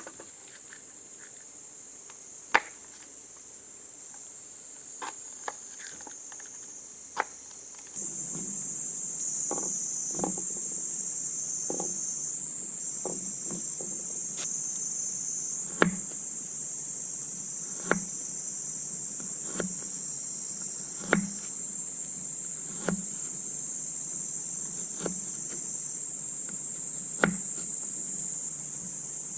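A steady, high insect chorus, typical of crickets, with sharp knocks every second or two in the second part.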